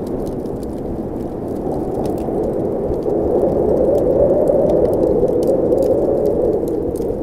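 Blizzard wind blowing steadily, swelling in a gust midway through, with the light crackle and pops of a wood fire.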